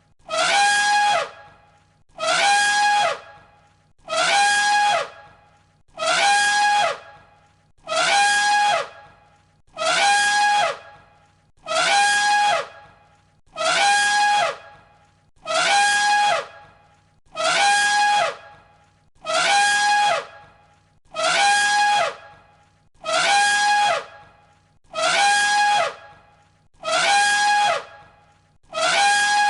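An elephant trumpeting, the same short call repeated about every two seconds, each call lasting about a second and dropping in pitch at its end.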